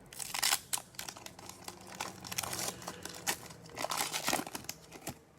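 Foil wrapper of a football trading-card pack being torn open and crinkled by hand, in irregular crackling bursts.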